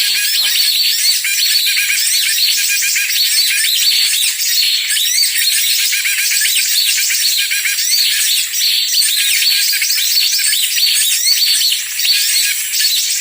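Dense chorus of many small birds chirping and twittering over one another without a break, high and thin with nothing low beneath it: a bird-lure (pikat) recording used to draw wild birds in.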